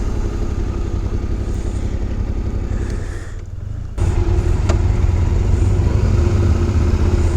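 Yamaha Ténéré 700 parallel-twin engine running while the motorcycle is ridden on a dirt road. It eases off and goes quieter about three seconds in, then comes back suddenly louder about a second later.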